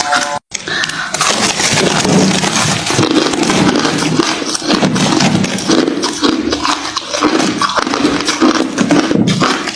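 Hard refrozen crushed ice being chewed close to the microphone: dense, continuous crunching, with a brief break about half a second in.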